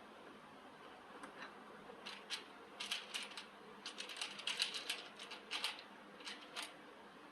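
A rapid, irregular run of light, sharp clicks and taps. It starts about a second in, is densest in the middle and thins out near the end.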